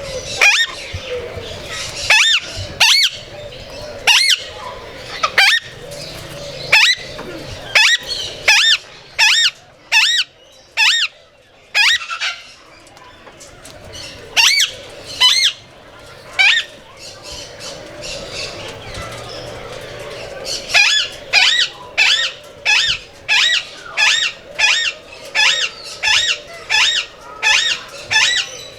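A bird giving loud, harsh squawks over and over in an even rhythm. A few seconds around the middle are quieter, then the squawks pick up again, faster, about two a second.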